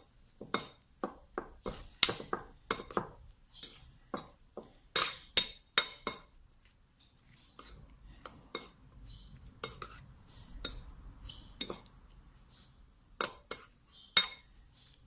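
A spoon stirring and clinking against a bowl as a dressing of canned-fish liquid, lime juice, chillies, shallots, garlic and kaffir lime leaves is mixed. The clinks are irregular: frequent for the first several seconds, soft and sparse in the middle, then a few sharper knocks near the end.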